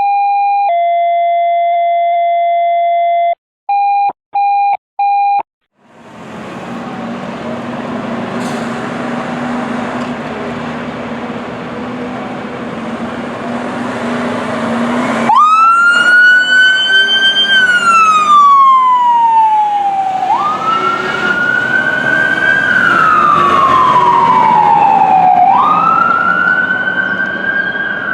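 Fire station alert tones: a steady tone, a long two-pitch tone, then three short beeps. Then the diesel engine of a Pierce tractor-drawn aerial ladder truck runs as it pulls out, and its siren winds up sharply and falls slowly, three times in a row.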